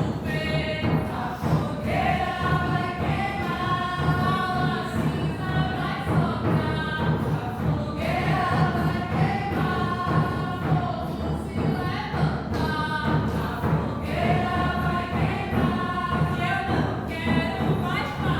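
A group of voices singing together in harmony, over a steady, repeating low beat.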